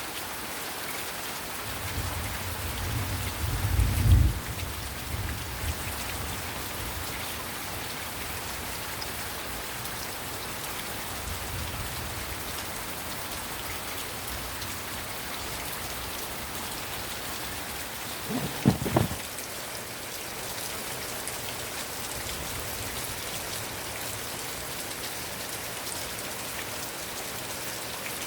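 Heavy rain falling steadily on surfaces, a dense even patter. Two low rumbles rise above it: one swelling over a few seconds to a peak about four seconds in, and a shorter, sharper one near the end of the second third.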